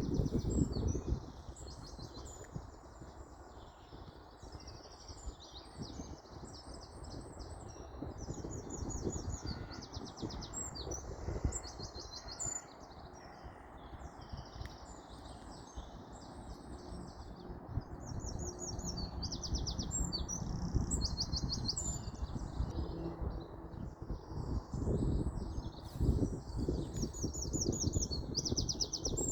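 Songbirds chirping and trilling again and again, several calls overlapping. Beneath them runs a low rumble that swells near the start and again near the end.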